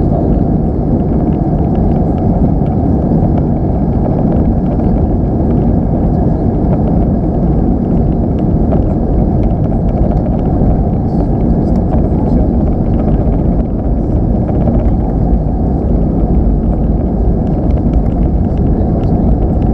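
Airbus A319 cabin noise at takeoff thrust: the jet engines and rushing air make a loud, steady rumble.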